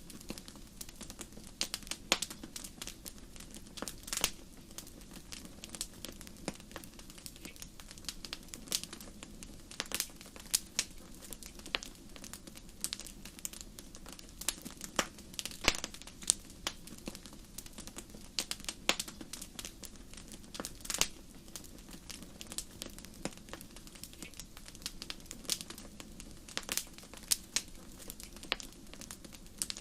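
Wood fire crackling: irregular sharp pops and snaps, some louder than others, over a steady low background of burning.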